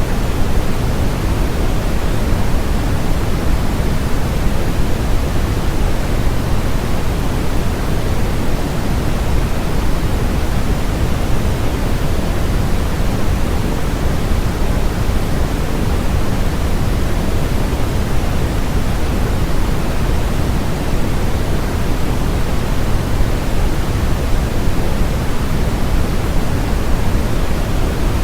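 Steady, unchanging electronically generated noise: an even hiss with no pitch or rhythm, weighted toward the low end and thinner at the top, closer to pink noise than flat white noise.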